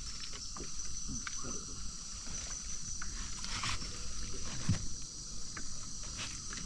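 Steady high insect trill, with scattered small knocks and splashes of water around a boat.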